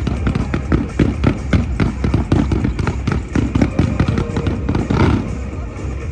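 Fireworks display going off: a dense run of bangs and crackles, several a second, with a brighter burst about five seconds in.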